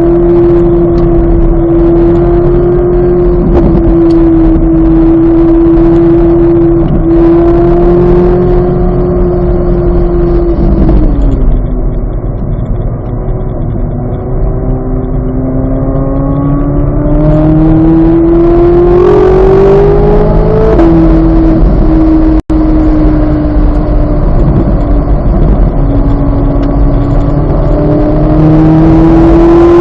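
2023 Chevrolet Corvette Z06's flat-plane-crank V8 running hard on track. The engine holds steady revs, then they fall away about a third of the way in. They climb steadily to a sudden drop like an upshift about two-thirds in, then hold steady again and start to rise right at the end. There is a brief dropout in the sound shortly after the shift.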